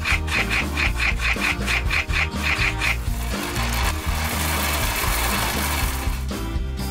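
Background music with a steady beat, and from about three seconds in a rough rasping, rubbing noise that lasts about three seconds.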